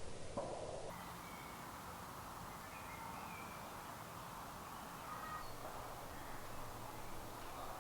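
Faint woodland ambience: a few short bird calls scattered over a steady low background hiss.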